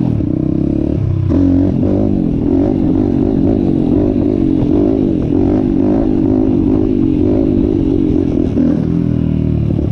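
Apollo RFN 140cc pit bike's single-cylinder four-stroke engine running as the bike is ridden, its revs rising and falling with the throttle. It opens up louder about a second in.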